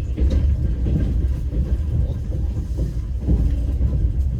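Passenger train carriage running along the track: a steady low rumble, with the wheels knocking over rail joints a few times, irregularly.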